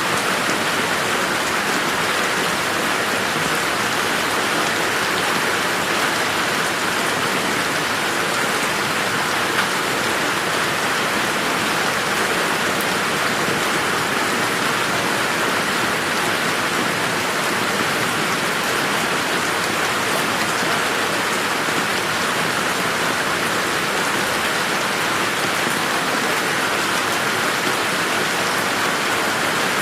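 Steady rain falling in a garden, an even hiss of drops on surfaces.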